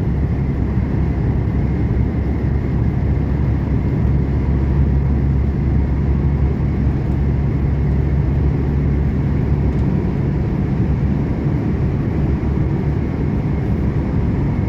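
Volvo truck's diesel engine and tyre noise heard from inside the cab while cruising at a steady speed: a constant low drone.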